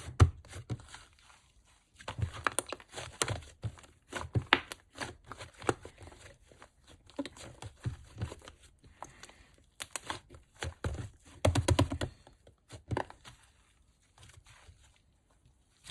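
Yellow and pink slime being squished, poked and stretched by hand, making irregular sticky clicks and crackling pops in clusters, with a few louder pops.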